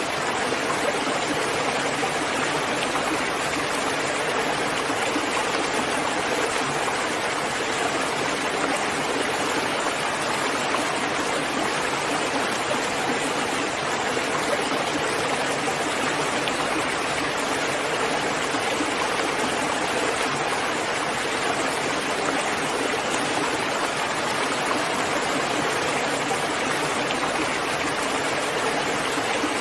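Steady, even rainfall, a constant hiss without changes or distinct drops standing out.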